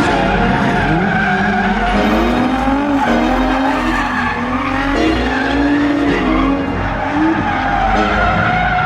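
Nissan 350Z's V6 engine revving up and down over and over with tyres skidding as the car is drifted.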